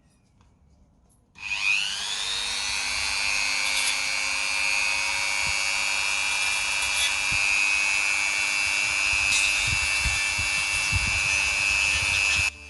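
Small high-speed rotary power tool spinning up about a second in and running steadily with a high whine, cutting into a model tow-truck part to make a place for the tow hook; it cuts off suddenly near the end.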